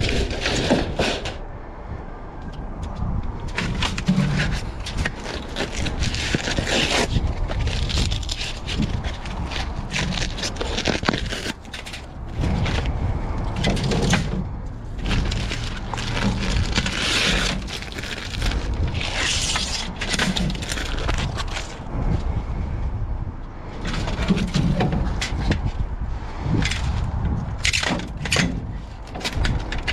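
Rummaging through a dumpster: an irregular run of rustles, crackles and knocks as trash and scrap are handled and shifted, over a low rumble.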